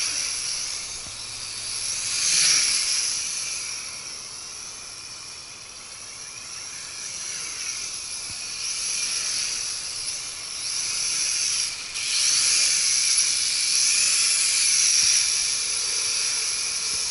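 Nihui U807 toy quadcopter, fitted with WLtoys V636 motors, whining in flight. The high motor-and-propeller whine rises and falls in pitch and loudness as it manoeuvres, with a brief dip about two-thirds of the way in.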